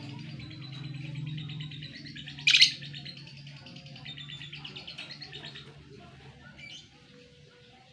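Caged burung labe birds chirping in fast, rapid-fire runs of high notes that thin out toward the end, with one sharp loud click about two and a half seconds in. A steady low hum runs underneath.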